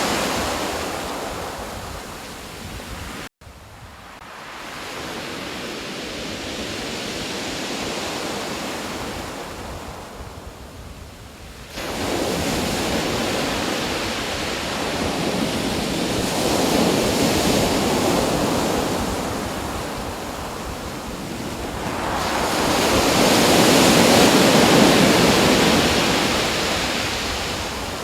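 Rushing water noise that swells and fades in slow surges. It cuts out for an instant about three seconds in, and its level jumps up abruptly near the middle.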